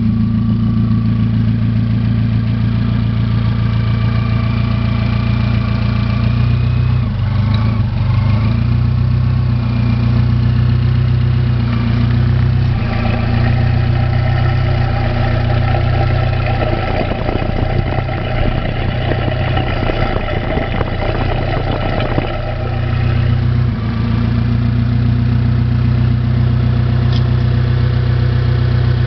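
Mitsubishi 4G93 1.8-litre inline-four engine running at idle. For about ten seconds in the middle the sound grows fuller and rougher, then settles back to a steady idle.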